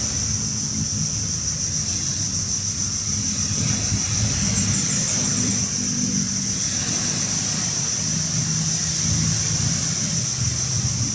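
An engine running steadily with a low drone, its pitch shifting slightly about eight seconds in, over a steady high-pitched hiss.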